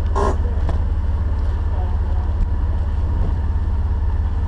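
Jeep running slowly over an off-road trail, its engine a steady low rumble, with a brief sharp sound about a quarter of a second in.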